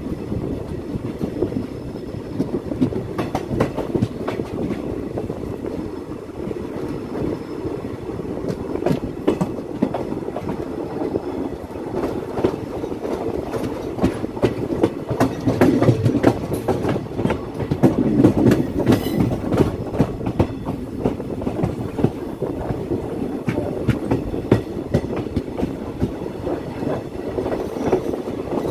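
Passenger express train running on the track, heard from an open coach doorway: a steady rumble of the wheels on the rails with irregular clicks and clatter over rail joints. It grows louder about halfway through.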